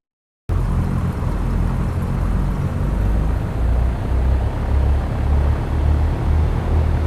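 Cessna 172's four-cylinder piston engine and propeller running steadily, a dense drone with a pulsing low rumble, cutting in abruptly about half a second in.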